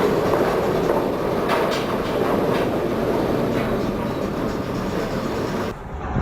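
Steady rumbling and rattling noise with a few sharp knocks, from a cargo ship labouring and rolling in a storm. Near the end it cuts abruptly to a different recording.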